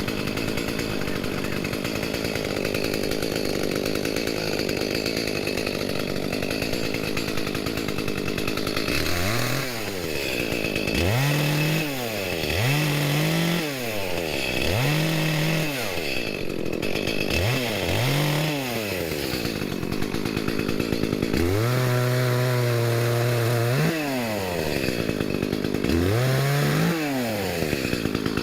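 Two-stroke chainsaw running steadily under load as it cuts wood, then revved up and down again and again, with one longer high rev held for a couple of seconds.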